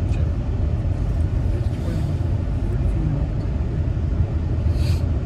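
Steady road and engine rumble inside a moving car, with a short hiss near the end.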